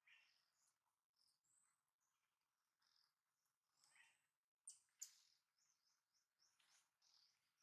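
Near silence, with faint, scattered high bird chirps and two sharp clicks about five seconds in.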